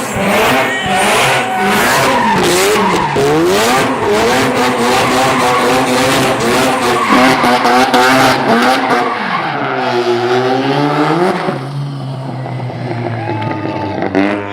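Rotary-engined car being driven hard, its engine pitch repeatedly climbing and dropping as the revs swing, with tyres squealing in a skid. About ten seconds in the revs drop deep and climb back sharply, then settle to a lower, steadier note near the end.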